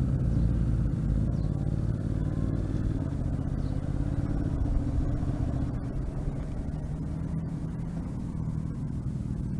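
Motorcycle engine running steadily on the move, with road and wind noise under it.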